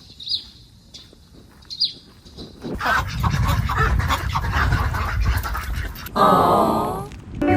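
Small birds chirping, then from about three seconds in ducks quacking loudly over a rushing background noise, with one long loud call near the end.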